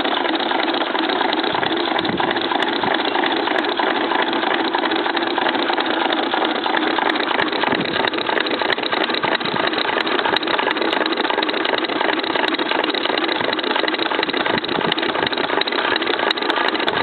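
Experimental solenoid-driven piston electric motor running steadily, its solenoids and crank mechanism making a loud, even mechanical din with a steady hum.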